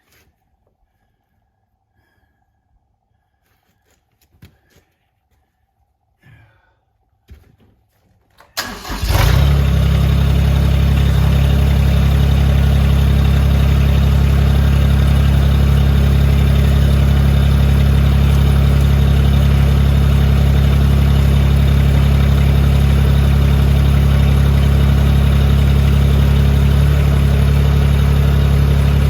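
Mahindra eMax 20 compact tractor's diesel engine starting about eight and a half seconds in, after a few faint clicks and knocks, then running loud and steady.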